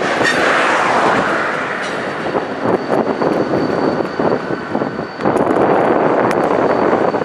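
A slow-moving train of flatcars and a caboose rolling through a rail yard: a continuous rumble and clatter of wheels on the rails. A thin steady high tone sits above it, and the noise grows louder about five seconds in.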